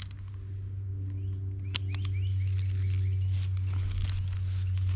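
A steady low hum runs throughout, with scattered light clicks and rustles. A few short bird chirps come about two seconds in.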